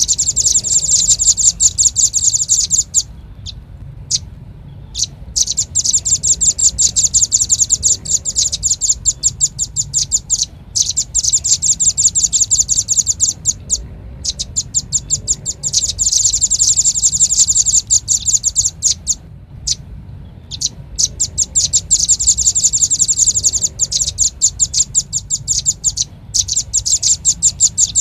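Velvet-fronted nuthatch (red-billed nuthatch) calls played as a bird-lure recording: rapid, high, sharp notes in fast chattering runs of a few seconds each, broken by short pauses.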